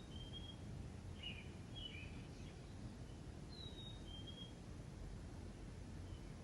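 A songbird calling: a short high whistle that dips slightly, then a lower brief note, repeated about every four seconds, with a few quick chirps between, over a steady low outdoor rumble.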